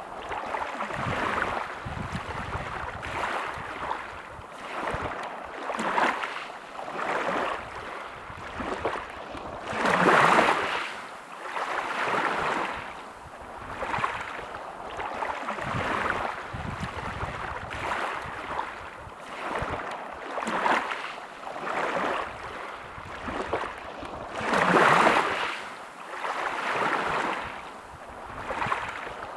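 Sea waves breaking and washing on a shore, surging and falling back every couple of seconds. Two bigger waves break, about a third of the way in and near the end.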